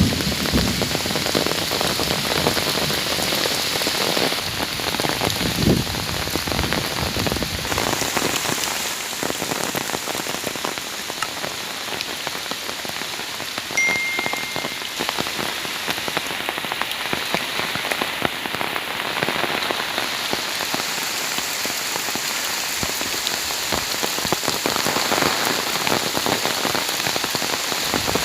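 Heavy rain falling steadily, with a few low rumbles in the first six seconds, the strongest about six seconds in. A brief faint high tone sounds about halfway through.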